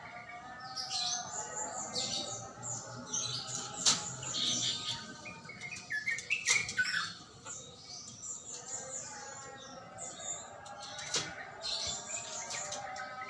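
Yellow-vented bulbul (trucukan) singing, a run of short, varied chirping phrases with brief pauses between them. Two sharp clicks cut in, about four and eleven seconds in.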